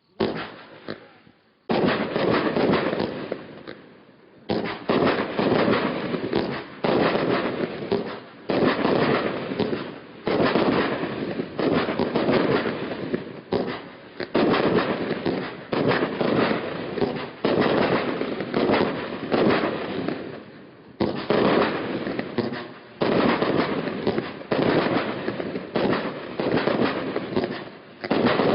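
Brothers Pyrotechnics 'Eagles VS Seagulls' firework firing shot after shot, about one every second or so, each shot trailing off in a crackling fizz. There are brief lulls a few seconds in and again about two-thirds of the way through.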